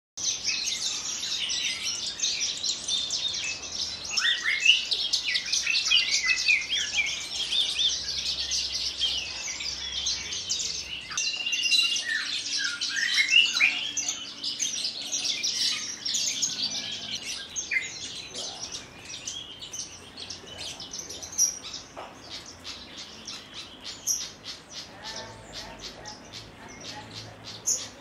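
Branjangan (Horsfield's bush lark) singing a fast, varied run of chirps, trills and short glides. The song is busiest through the first half and thins to scattered sharp chirps later.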